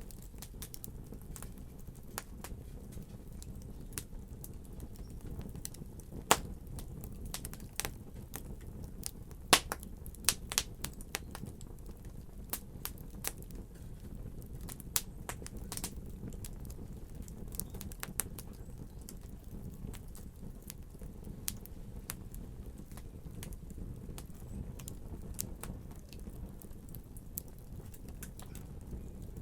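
Wood fire burning in a fireplace: a steady low rumble of flames with irregular sharp crackles and pops, a few louder pops about six and ten seconds in.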